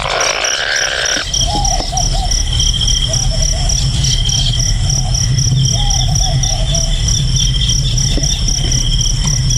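Insects chirping in a fast, steady pulsing trill, with short wavering calls from another animal now and then, over a steady low rumble. A brief rushing noise opens the stretch.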